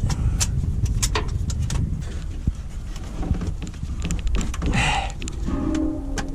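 Scattered metallic clicks and knocks over a low rumble, with a short scrape about five seconds in, as something on the removed truck gearbox's jack is tightened up.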